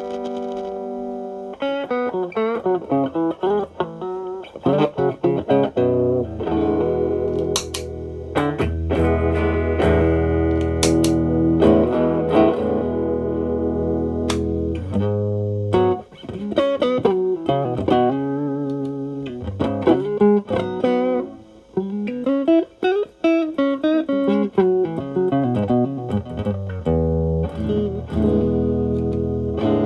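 Electric guitar (Stratocaster) played through a Xotic AC Plus overdrive pedal, with the gain set at about 8 to 9, into a Marshall Valvestate amp. It plays lead phrases and chords with string bends, in a driven tone with brief pauses between phrases.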